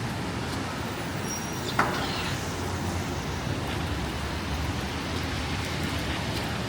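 Steady city street noise of traffic, with a low rumble of strong wind on the microphone. About two seconds in comes one brief sharp sound.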